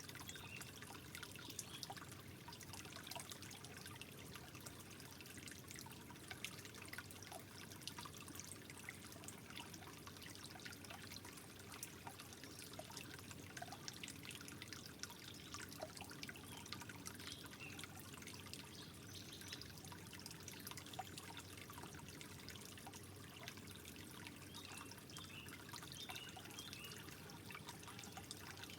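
Water trickling softly and steadily, with many small irregular drips and splashes.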